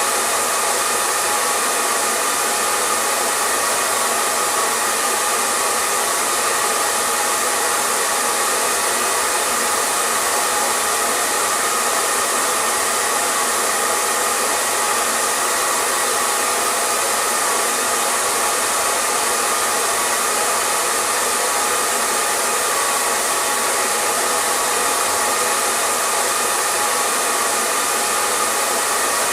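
Hair dryer running steadily: an even rush of blown air with a faint motor hum, without change.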